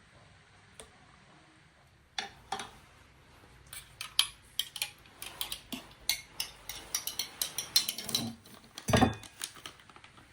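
Utensils and dishes being handled: a quick, irregular run of clinks and knocks that starts about two seconds in, with one heavier knock near the end.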